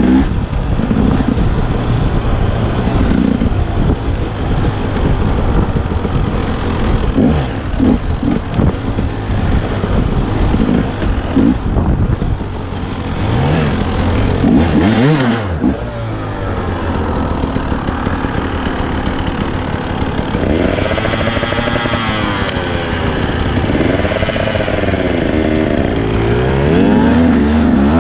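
Dirt bike engine running and revving, its pitch rising and falling again and again with the throttle. A brief burst of noise comes about halfway through.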